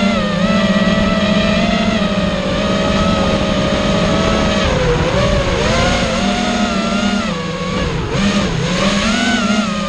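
FPV racing quadcopter's motors and propellers running with a buzzing whine. The pitch holds steady for the first few seconds, then dips and rises again and again as the throttle changes.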